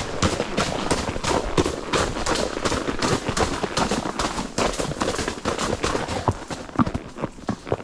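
A horse's hooves clip-clopping on a forest trail, heard from the saddle, as a dense run of irregular knocks over a rustling noise. Near the end the hoofbeats become sparser and quieter.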